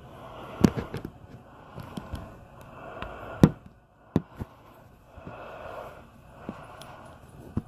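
Blizzard wind rushing over a phone's microphone, with a few sharp knocks at irregular intervals.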